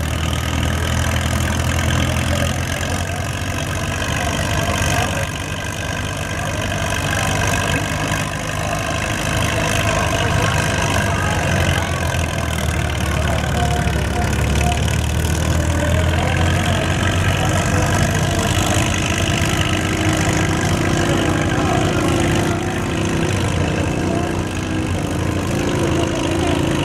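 Restored Caterpillar D-2 crawler tractor engine running steadily under load while pulling.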